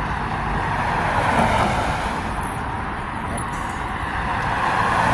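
Steady road traffic noise: a continuous hiss with an uneven low rumble underneath.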